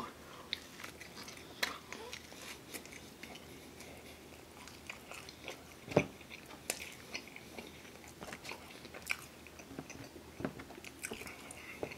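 A person biting into and chewing pizza crust up close, with small crunches and wet mouth clicks. One sharper click comes about halfway through.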